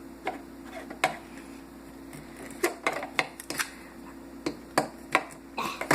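Small hard plastic toy figures clicking and knocking against each other and a surface, about ten irregular sharp taps, over a faint steady hum.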